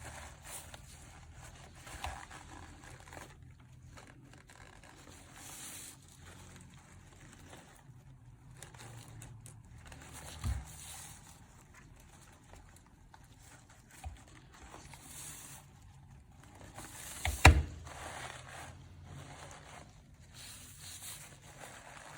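Handling noise from working a coco-coir sheet birdhouse by hand: light rustling and scraping, a few soft knocks, and one sharp, loud knock about seventeen seconds in.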